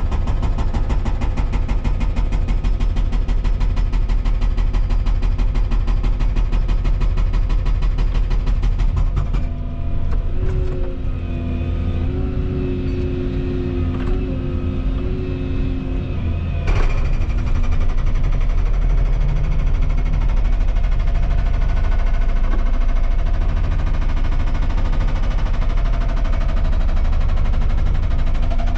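Volvo ECR235EL excavator working under load, diesel engine and hydraulics running loud. For the first third there is a fast, even pulsing, then a few seconds with a held hydraulic whine, then steady running.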